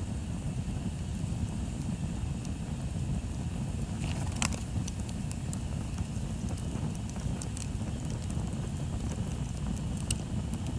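Bonfire burning: a steady low rush of flames with scattered crackles and pops of burning wood, one sharp pop about four and a half seconds in and another near the end.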